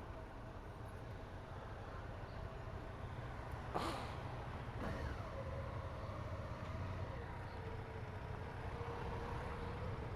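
Motorcycle engine running under low wind rumble while riding, its note easing down in pitch about halfway through. A single sharp click comes about four seconds in.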